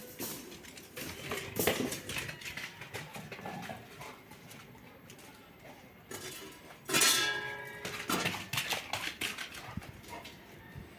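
A dog moving about amid scattered clicks and clatters, with one loud, short dog call about seven seconds in.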